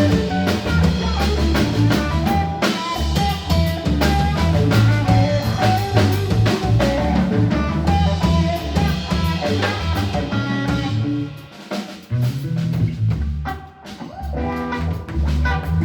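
Live blues band playing an instrumental passage: guitar over drum kit and a moving bass line, easing quieter for the last few seconds.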